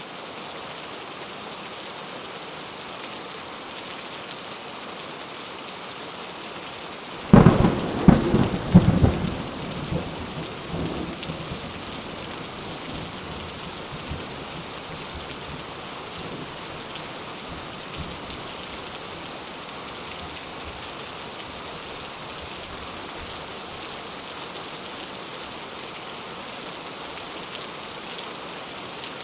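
Steady rain falling, and about seven seconds in a sudden close thunderclap: several sharp cracks in quick succession, then a rumble that fades back into the rain over a few seconds.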